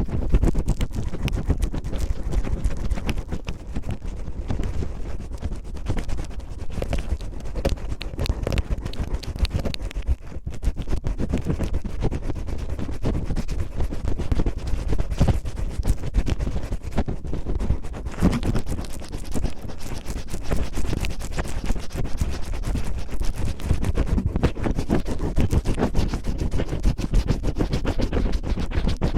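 Cellophane crinkled and rubbed against a microphone to mimic rough ear cleaning: a dense, continuous crackling scratch.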